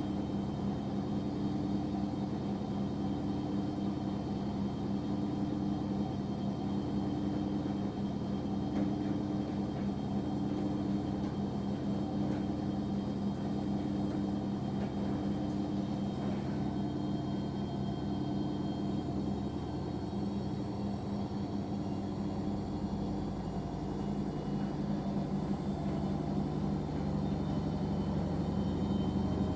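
Washing machine running: a steady motor hum with a tone that pulses about once a second. About twenty seconds in the sound shifts as a deeper steady hum joins in.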